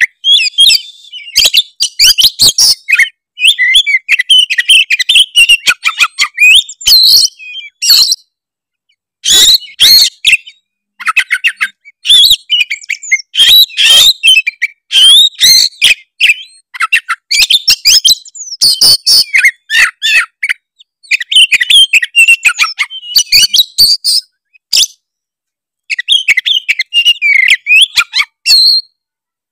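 Oriental magpie-robin (kacer) singing a fast, varied song of rapid tretes trills and mimicked phrases. It comes in bursts of a second or two, broken by short silent gaps.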